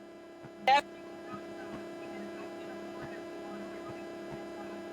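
Steady electrical mains hum, with one short syllable of a voice just under a second in.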